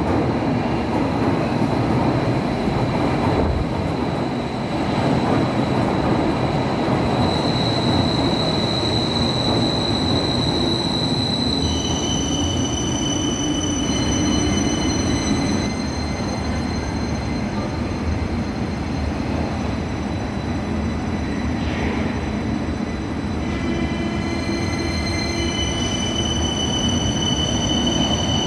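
Berlin U-Bahn type JK train running on the track, with a steady rumble of wheels on rail. High, drawn-out wheel squeal comes in about seven seconds in and returns at several pitches through the rest, strongest near the end.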